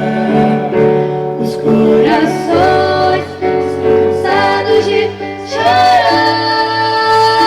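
Choir singing a gospel song with instrumental accompaniment, women's voices to the fore, ending on long held notes.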